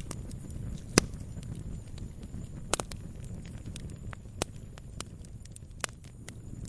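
Campfire crackling: irregular sharp pops and snaps of burning wood over a low, steady rumble of the flames, the loudest pop about a second in.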